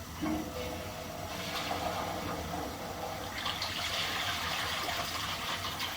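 Running water, louder from about three and a half seconds in.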